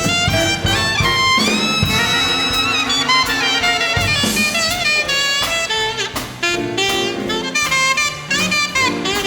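Live swing big band playing an instrumental break, with an alto saxophone soloing over the brass section and rhythm section. There is a long held note about a second and a half in.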